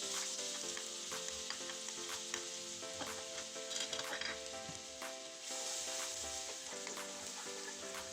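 Food sizzling in a frying pan while being stirred, with scattered light clicks of the utensil against the pan, over soft background music.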